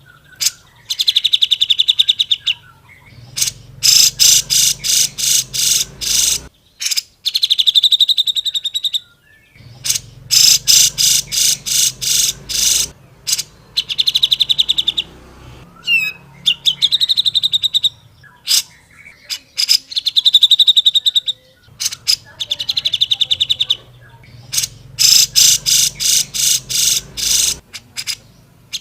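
Cucak jenggot (grey-cheeked bulbul) singing loudly in repeated rapid chattering phrases. Each burst is a fast string of evenly spaced notes lasting a second or two, with short pauses between.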